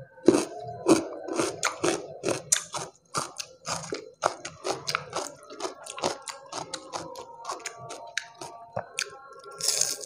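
Close-miked chewing of crunchy food: a fast, uneven run of crisp crunches and mouth clicks, ending in a louder bite into a sambal-covered fried chicken piece.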